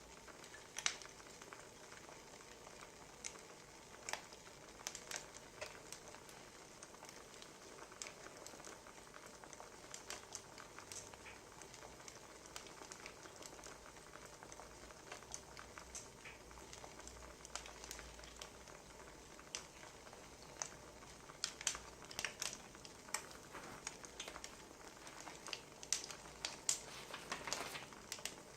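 Wood fire crackling: irregular pops and snaps over a soft steady hiss, with the pops coming more thickly in the last several seconds.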